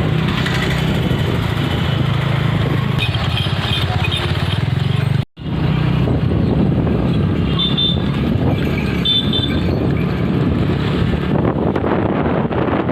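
Motorcycle engine running steadily while riding, a continuous low drone. The sound drops out completely for a moment about five seconds in.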